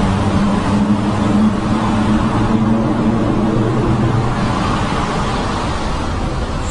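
Car engine running at steady revs under heavy road and wind noise; the engine note fades about two-thirds of the way through.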